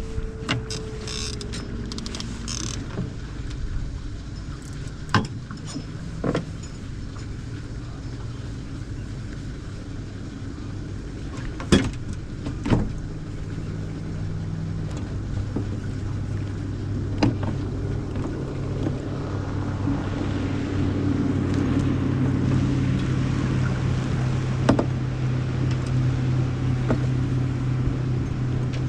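A boat's motor hums steadily while trolling, growing stronger and louder about twenty seconds in. A handful of sharp knocks break in over it.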